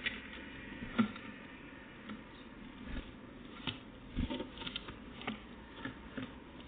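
Irregular light taps and clicks, scattered and sometimes in quick little clusters, over a low steady hiss.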